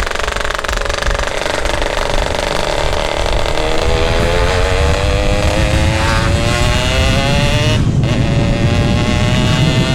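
Yamaha RX-King's two-stroke single through a GRT18 aftermarket expansion-chamber exhaust, the bike accelerating with the revs climbing. About eight seconds in the note breaks off briefly for a gear change, then rises again.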